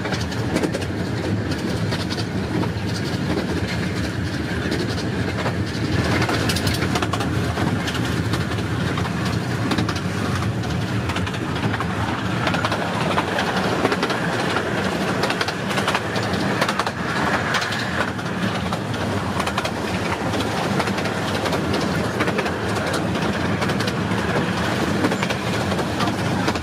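A 15-inch-gauge miniature railway train running along the track, heard aboard: a steady rumble of the carriage wheels on the rails, with a rapid, irregular clickety-clack of wheels passing over rail joints.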